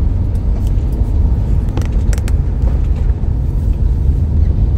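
Class B campervan being driven, a steady low road-and-engine rumble with a few faint ticks about two seconds in.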